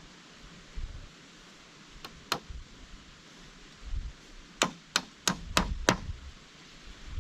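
Sharp knocking blows, as of chopping or hammering: two about a third of a second apart, then a quick run of five at about three a second.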